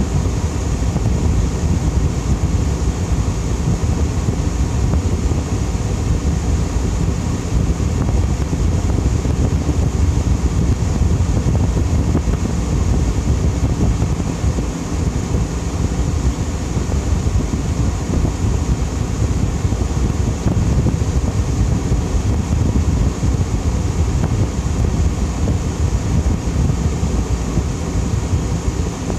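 Fedders A2Q10F2A 10,000 BTU window air conditioner running on low fan speed: a steady, even rush of blown air, heaviest at the low end.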